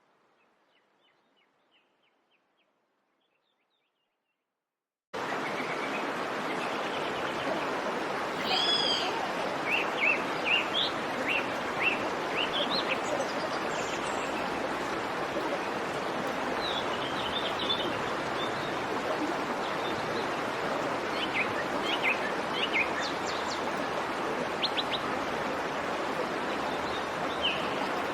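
Birds chirping, with short calls that rise in pitch and come in clusters from about eight seconds in, over a steady rushing background noise that starts suddenly about five seconds in. The first few seconds are almost silent, with a few faint ticks.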